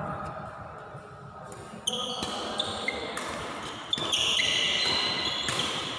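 Badminton rally on an indoor court: sneakers squeaking on the court floor, with sharp racket hits on the shuttlecock about two and four seconds in.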